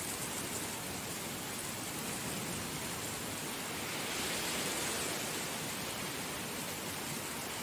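Heavy rain falling as a steady, dense hiss, swelling slightly about halfway through.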